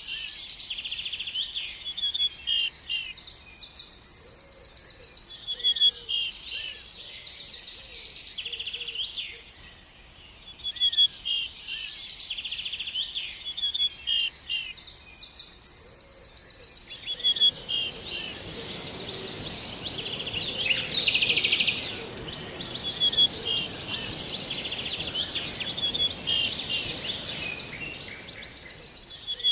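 A songbird singing, repeating short phrases of quick trills and chirps every few seconds, with a brief pause about ten seconds in. About halfway through, a steady hiss comes in beneath the song.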